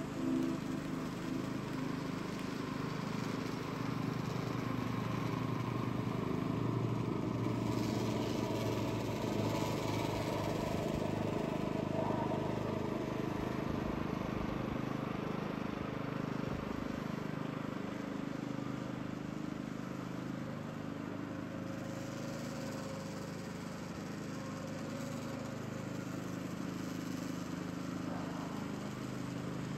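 Walk-behind petrol reel mower cutting grass, its small engine running steadily with the pitch drifting slightly.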